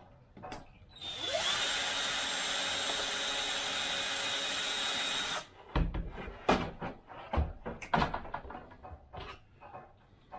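Small power screwdriver running for about four seconds, driving in a servo mounting screw, then stopping sharply; after it, scattered clicks and knocks of parts and tools being handled.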